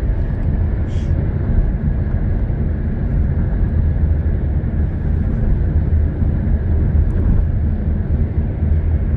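Steady low rumble of a car driving along a highway: road and wind noise.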